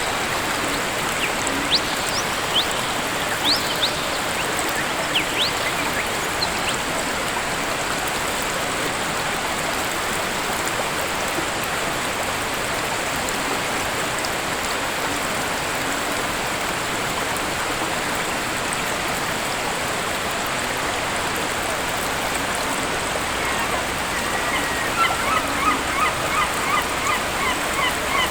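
Waterfall rushing steadily, with birds calling over it: a few short high chirps in the first few seconds, then, near the end, a quick run of repeated calls, about three a second.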